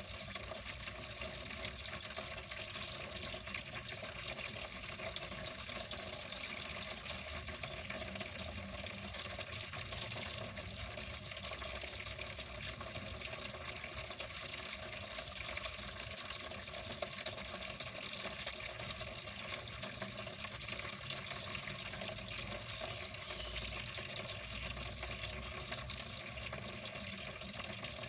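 Water running steadily, a continuous even flow with small splashy flickers.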